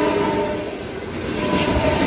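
Indian Railways train horn ending about half a second in, over the loud rushing noise of a train passing through at speed, with a fainter tone returning near the end.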